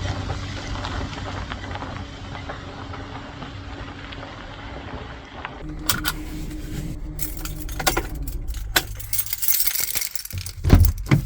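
Van running on the road with a steady low hum for the first half. Then jangling keys with sharp clinks and a few knocks.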